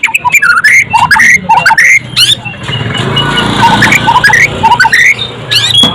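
White-rumped shama (murai batu) singing a fast, varied song of sweeping whistled notes that rise and fall. A low engine-like rumble runs underneath, heaviest in the middle.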